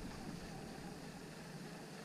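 Faint, steady background noise on a small boat on the water, with no distinct event.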